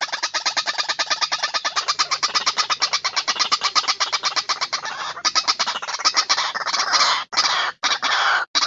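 White-breasted waterhen (ruwak-ruwak) lure call: a fast train of harsh, even pulses, about nine a second, that runs together into continuous chatter about halfway through. Near the end it breaks into loud, ragged croaking calls with short gaps between them.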